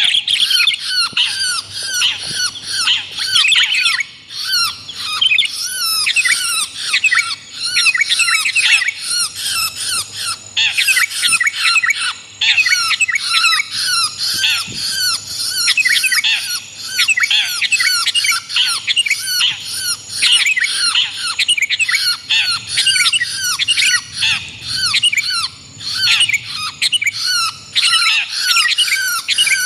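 Dense, unbroken chorus of overlapping bird calls, rapid short chirps, many sweeping downward, and harsh squawks. It is a layered bird-trapping lure recording mixing long-tailed shrike and sooty-headed bulbul calls.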